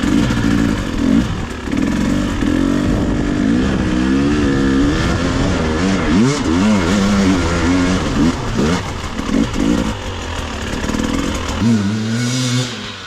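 Two-stroke 300cc dirt bike engines running and revving, their pitch rising and falling repeatedly as the throttles are worked.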